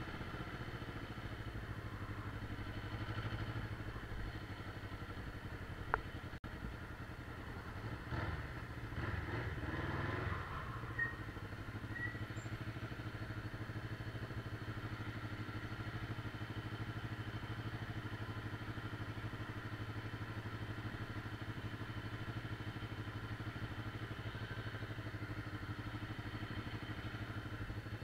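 Motorcycle engine running steadily, with a single sharp click about six seconds in and a brief swell of louder, shifting noise between about eight and ten seconds.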